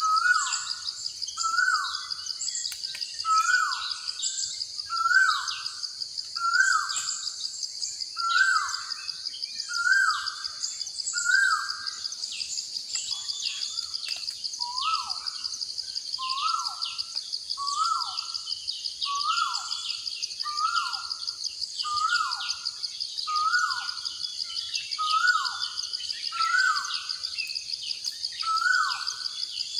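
Nature ambience: a bird repeats a short falling call about once a second, pausing briefly midway, over a steady high, fast-pulsing insect trill and scattered small chirps.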